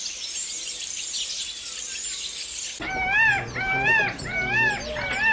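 Animal calls: high-pitched, busy chirping that cuts off abruptly about three seconds in. It is followed by a repeated call, rising then falling in pitch, sounding about every 0.7 seconds, four times.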